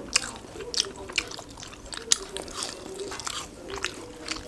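Close-up chewing and biting of a burger, with sharp wet crunches coming two or three times a second.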